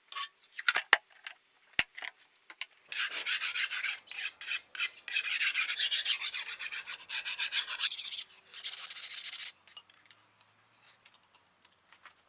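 Quick back-and-forth rasping strokes of hand abrasive work on the knife, in a sustained run of several seconds after a few sharp clicks, dying away to a few light scrapes near the end.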